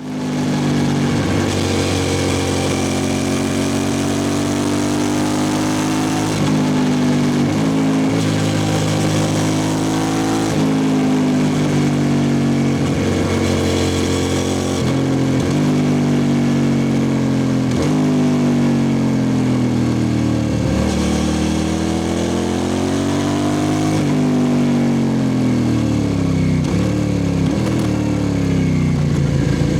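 2003 Suzuki SV650S V-twin engine running through a Lextek exhaust with the dB killer removed. The revs rise and fall over and over, with short breaks where the pitch drops.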